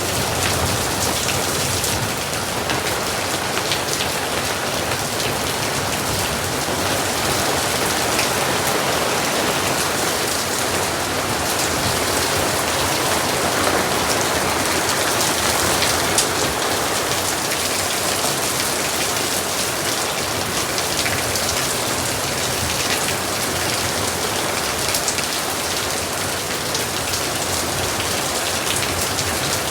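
Steady, dense rain falling on hard surfaces: a continuous hiss sprinkled with the ticks of individual drops.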